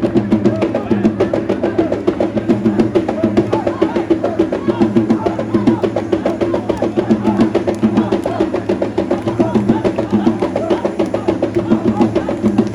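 Fast, steady drumming, many strokes a second, over a sustained low tone: drum-led music.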